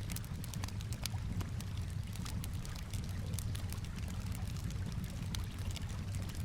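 Campfire crackling, with frequent small sharp pops, over a steady low wash of gently moving water.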